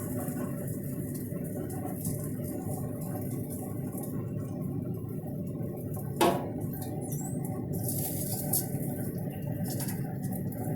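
Pit Boss 850 pellet grill's fan running steadily as a low hum in its shutdown cycle. About six seconds in there is one short, sharp squeak.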